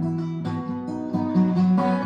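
Acoustic guitar playing an instrumental passage without singing, several plucked notes ringing together and changing about every half second.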